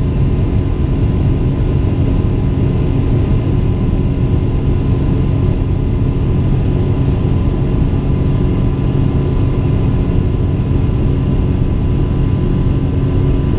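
Steady jet engine and airflow noise of a Boeing 777-200 heard from inside the passenger cabin: a constant deep rumble with a few steady hums on top, unchanging throughout.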